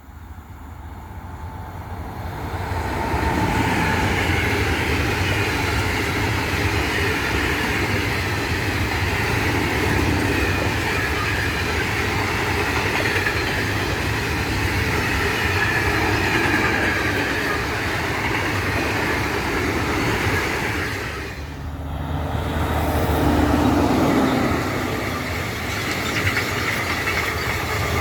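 A freight train of silo wagons, hauled by an electric locomotive, rolls past with steady wheel-on-rail noise and clickety-clack over the rail joints; it swells up over the first few seconds. About three quarters of the way in the sound dips, and another passing train's rumble takes over.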